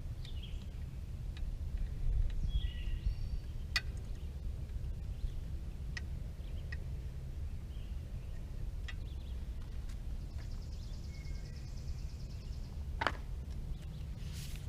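Birds chirping now and then over a steady low background rumble, with a few sharp clicks and taps from fender parts being fitted to an electric scooter.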